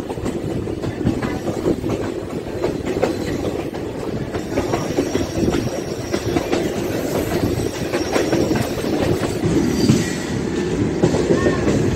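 DEMU passenger train running along the track, heard from its open doorway: a steady rumble of wheels on rail with a rapid clickety-clack of clicks.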